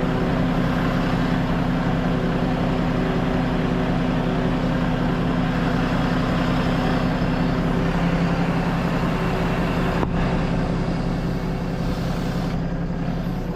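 Heavy truck diesel engine running steadily at a constant speed.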